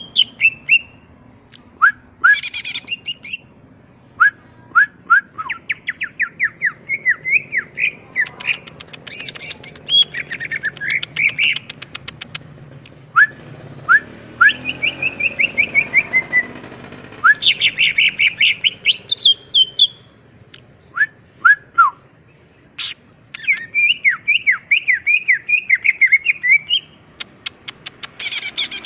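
Cucak ijo (green leafbird) singing a long, varied song. It is made of rapid chattering trills, series of quick downward-slurred whistles and high rattling phrases, broken by short pauses. This is the loud, busy type of song used as a pancingan call to make other cucak ijo answer.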